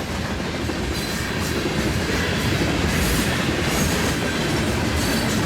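Freight train cars rolling past at speed, steel wheels running steadily on the rails.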